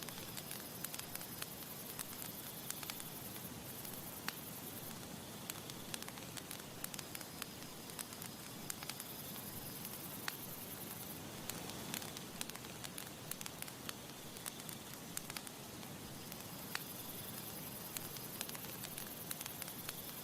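Campfire crackling: irregular sharp snaps and pops over a steady soft hiss.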